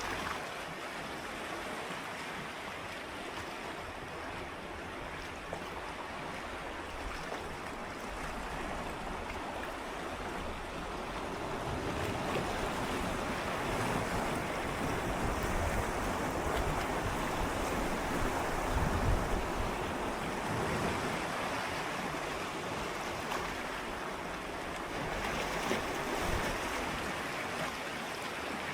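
Gentle sea waves swirling and lapping against shoreline rocks, a continuous wash that swells louder through the middle and briefly again near the end as the water surges in.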